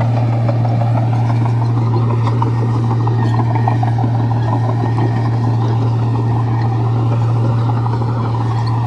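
Komatsu bulldozer's diesel engine running steadily, a loud unbroken low drone with dense rattling over it.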